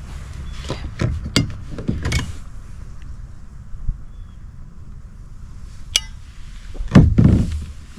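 A coffee thermos and cup being handled: several clinks and knocks of the lid and cup in the first couple of seconds, a single sharp click later, and a louder handling noise near the end, over a steady low rumble.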